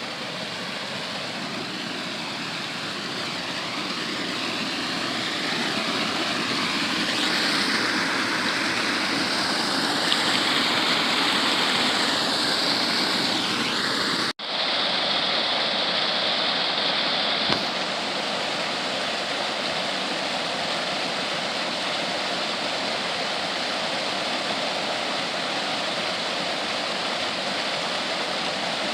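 Steady rushing water from a stream and waterfall, growing louder over the first several seconds. It cuts out for an instant about halfway through, then goes on slightly quieter and even.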